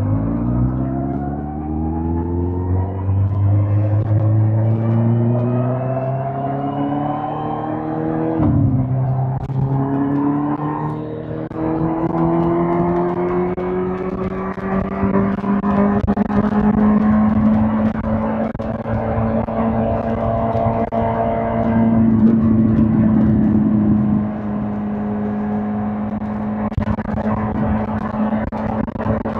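2005 Suzuki GSX-R1000's inline-four engine accelerating, its pitch rising steadily through a gear. About eight and a half seconds in the pitch drops suddenly at an upshift, climbs again, then settles to a steady cruise.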